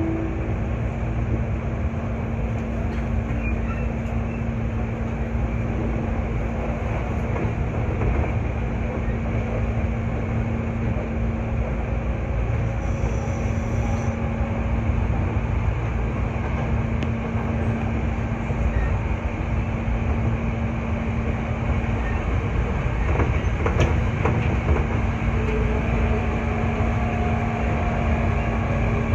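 Hankyu 8300 series electric train running, heard from inside the car: a steady rumble of wheels on rail with a constant low hum. A few faint whining tones join in near the end.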